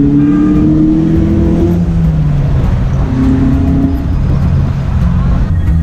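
Car engine running as the car drives along a road, heard from inside the cabin, its pitch climbing as it speeds up in the first two seconds and again about three seconds in.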